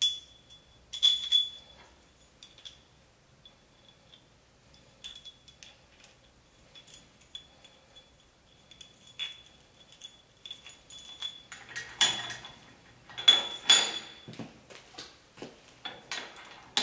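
Small steel parts (hold-down clamp, bolt and T-nut) clinking and scraping against the steel table and magnetic chuck of a surface grinder as they are fitted by hand. Scattered light clinks with a faint high ring, coming thickest about twelve to fourteen seconds in.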